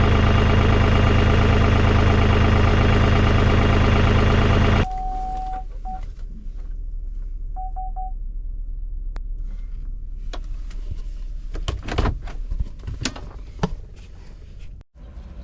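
A tractor running, loud for the first five seconds and then suddenly quieter. A few short beeps sound between about five and eight seconds in, and several sharp knocks and clanks come near the end.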